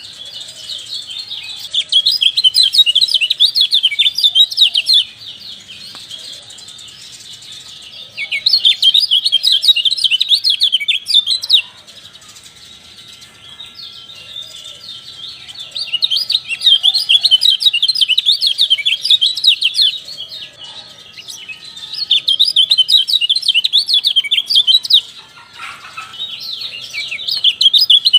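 Kecial songbird singing in loud bouts of rapid, high chattering notes, each bout several seconds long with short quieter gaps between. This is a lure recording, played to set caged kecial singing.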